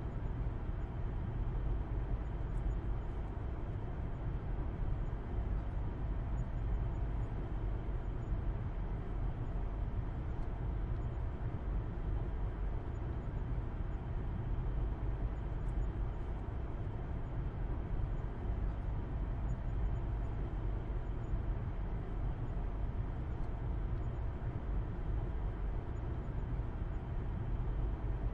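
Steady road noise and engine hum from a car driving at a constant speed, heard from inside the cabin, with a deep rumble and no changes in pace.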